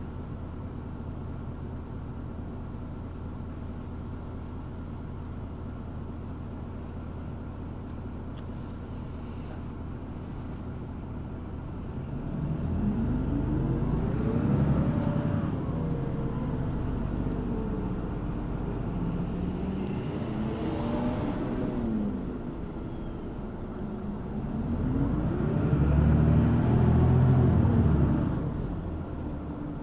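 City bus engine idling steadily, then revving up as the bus pulls away, its pitch rising and dropping three times as it shifts up through the gears.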